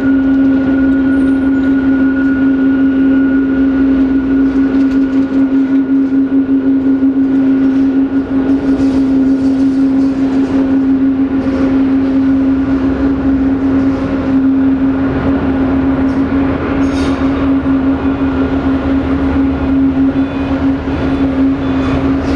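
Boeing 777-200 jet engines running steadily: a loud, even noise with a constant low humming tone that does not rise or fall.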